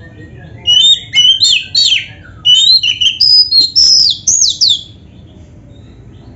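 Oriental magpie-robin (kacer) singing a fast run of loud whistled phrases, many of them sliding downward, starting just under a second in and lasting about four seconds.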